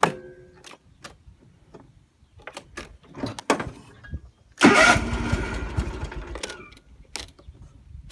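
Lawn mower engine being started again after stalling: a few clicks and knocks, then about four and a half seconds in the engine fires loudly and runs for a couple of seconds before fading away without catching.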